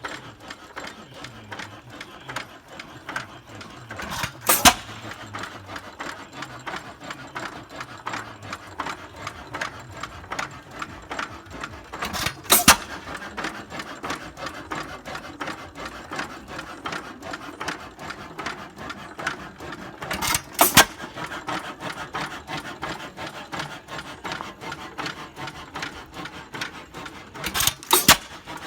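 A 6 hp Associated hit-and-miss engine running without a muffler. It coasts with a fast, steady clacking, and about every eight seconds it fires two or three loud bangs in quick succession, the governor letting it skip firings between.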